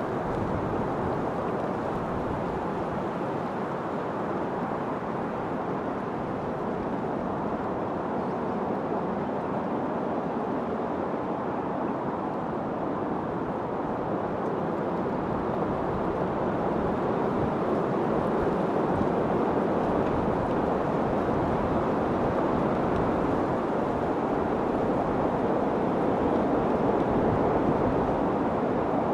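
Steady rushing wind, an even noise that swells a little louder in the second half.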